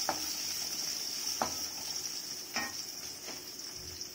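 Garlic cloves and shallots sizzling in sesame oil in a steel kadai, with a steady high hiss. A wooden spatula stirring them knocks and scrapes against the pan four times.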